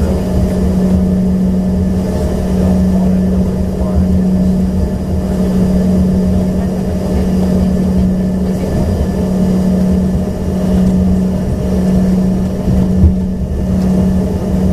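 Steady drone of an Embraer ERJ-145XR heard from inside the passenger cabin: a strong low hum with fainter whining tones above it, unchanging throughout.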